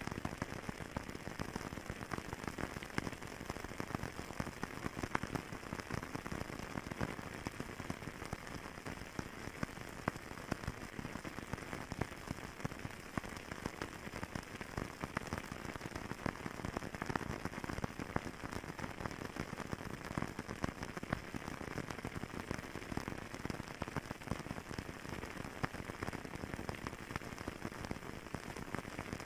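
Wood fire burning in a fireplace, a dense, steady crackle of many small pops.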